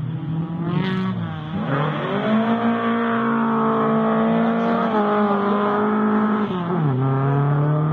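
Rally car engine revving hard and changing gear, its pitch climbing and then dropping sharply at each shift, the largest drop about seven seconds in.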